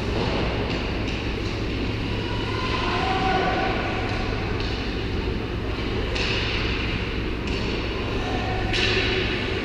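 Ice hockey arena ambience: a steady low hum and rumble with brief brighter hissing swells about six and nine seconds in.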